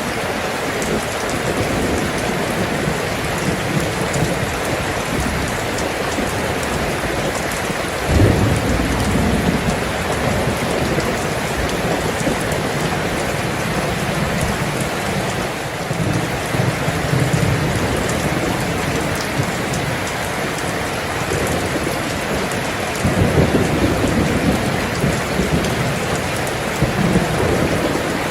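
Steady, heavy rain falling, with low rolls of thunder: one sets in suddenly about eight seconds in, and longer rumbles come about halfway through and again near the end.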